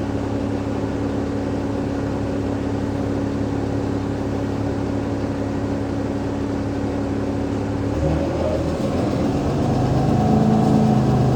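Cummins ISL8.9 inline-six diesel of an Alexander Dennis Enviro500 MMC double-decker bus idling steadily. About eight seconds in, the engine note changes and starts to rise as it takes up power.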